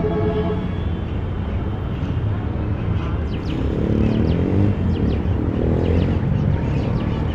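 City street traffic: a steady rumble of passing cars and engines. About halfway through, one vehicle's engine note rises and falls as it goes by.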